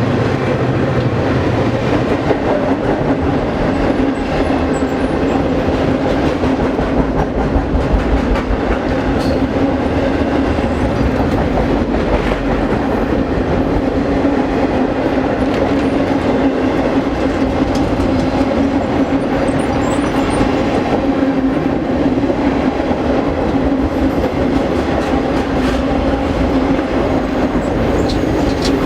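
Long circus train's cars rolling past at steady speed, wheels clicking over rail joints with a steady hum underneath.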